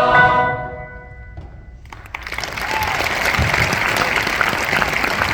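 A choir's final held chord fades out, a short hush follows, and audience applause breaks out about two seconds in and carries on steadily.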